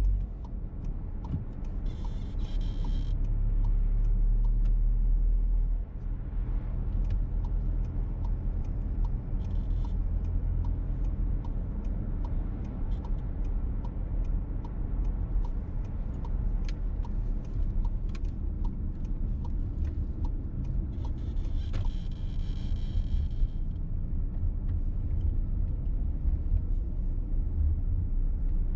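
Cabin noise of a petrol VW T-Roc on the move: a steady low engine and road rumble with a faint regular ticking through the first two-thirds. A squeak from somewhere in the car cuts in about two seconds in and again for a couple of seconds near twenty-two seconds.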